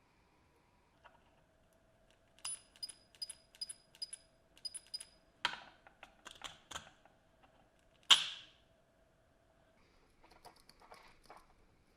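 Small metal parts being handled: a run of light metallic clicks, each with a brief high ring, about three a second, then a few knocks and one sharp, loud knock about eight seconds in, followed by soft handling noise.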